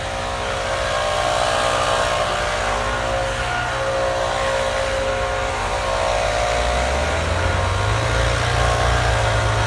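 Engine running steadily, with a deeper low hum joining about seven seconds in.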